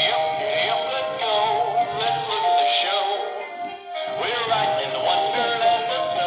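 Battery-operated animated toy playing a song with electronic singing through its built-in speaker, with a brief break a little before four seconds in.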